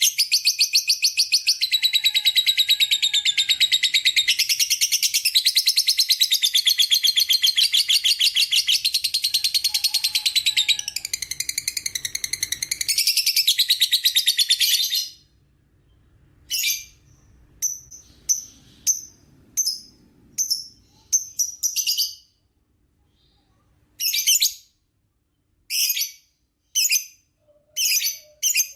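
Lovebird giving its long 'ngekek' song: a rapid, unbroken high chattering trill that runs for about fifteen seconds and then stops. It is followed by short, sharp single chirps at uneven intervals, coming faster near the end.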